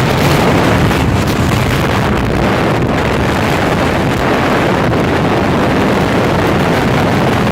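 Motor vehicle running at speed, its engine noise mixed with heavy wind buffeting on the microphone, steady throughout.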